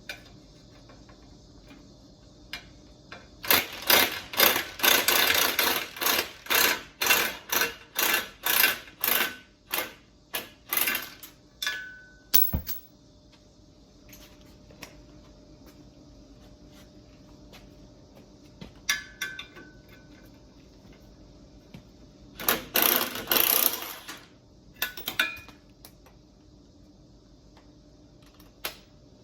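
Hand tools working on a car's exhaust: a run of rhythmic metal strokes, about two a second for some eight seconds, then a single sharp knock, and later a shorter burst of strokes.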